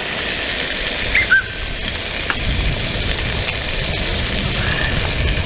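Cajun sausage and potatoes sizzling as they fry in a pan, a steady hiss. There are two short high chirps about a second in, and a low rumble joins a couple of seconds in.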